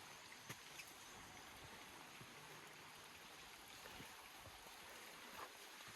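Faint, steady rushing of a river in a gorge, with a few soft clicks.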